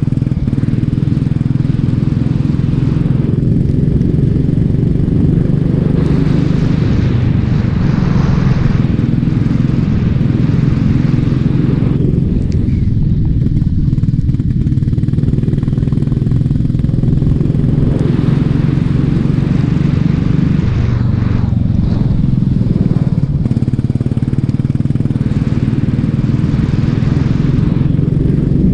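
Racing kart engine running hard, its pitch stepping up and down every few seconds as it accelerates and lifts through the corners, with a hiss that swells and fades over it.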